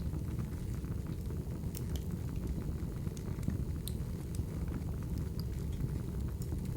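Crackling wood fire: a steady low rumble of burning with scattered sharp pops and crackles, a few seconds apart.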